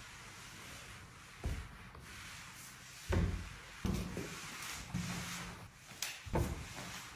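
Kitchen items being handled and set down in a cabinet: four or five soft knocks with dull thuds, spaced a second or two apart, with rubbing and rustling between them.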